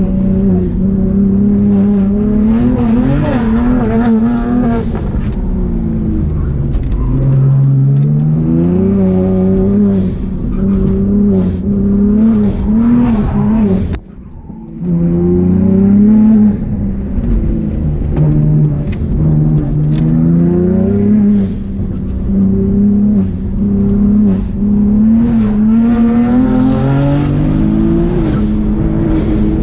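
A BMW 135i's turbocharged N54 straight-six engine is heard onboard under hard driving. The engine pitch climbs and falls repeatedly through gear changes and throttle work. About fourteen seconds in, the sound cuts off sharply for a moment and then rises again.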